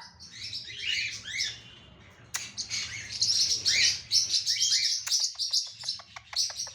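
Ringneck parrot chirping in short, high calls that rise and fall, with a short pause about two seconds in and a quick run of clicks near the end.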